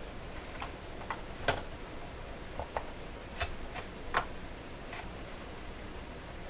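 About nine light, irregular clicks and taps from small hand tools and plastic radio parts being handled on a workbench; the sharpest come about a second and a half in and just after four seconds.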